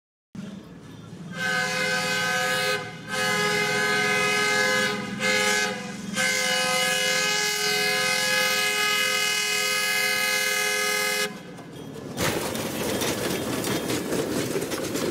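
Locomotive air horn sounding several tones at once in four blasts, long, long, short, long: the standard signal for a road grade crossing. From about twelve seconds in, a diesel locomotive rolls past close by with a rumbling, rattling wheel-and-rail noise.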